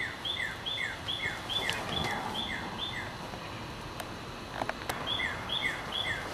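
A songbird singing a repeated two-note phrase, a high note followed by a lower falling one, about two phrases a second, with a pause of a couple of seconds in the middle. A few clicks and rustles from the camera being handled come during the pause.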